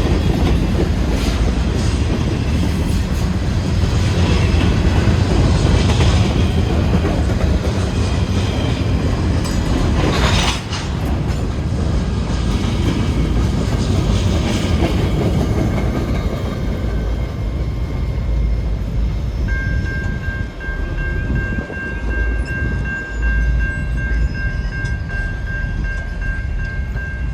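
Norfolk Southern freight train rolling past, a loud steady rumble with wheels clacking over the rail joints. There is a sharp bang about ten seconds in, after which the rumble eases, and a steady high whine comes in during the last several seconds.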